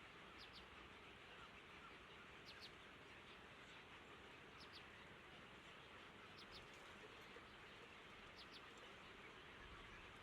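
Faint, high double chirp of a bird, repeated about every two seconds over a steady hiss.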